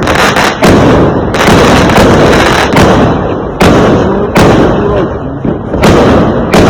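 Fireworks going off in quick succession: a string of loud, sudden bangs at uneven gaps of roughly half a second to a second and a half, with a dense rumble and crackle between them.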